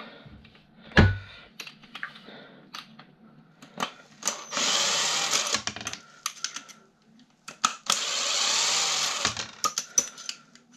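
Cordless drill-driver run twice in bursts of about a second and a half, backing screws out of a desk fan housing, with clicks and knocks of parts being handled between the runs and a sharp knock about a second in.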